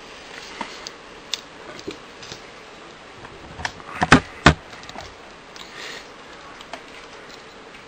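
Small hard plastic clicks and knocks from a plastic transformable action figure being handled and posed, scattered and irregular, with the loudest two or three knocks close together a little after four seconds in.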